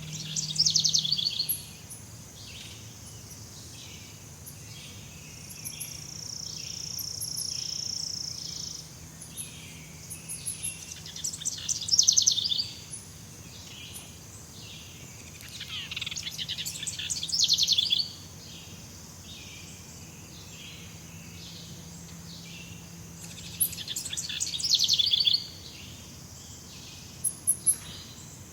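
Jungle ambience: a bird sings a loud, rapid trilled phrase four times, a few seconds apart, over a continuous pulsing chorus of insects. A steady high insect buzz runs for a few seconds near the middle.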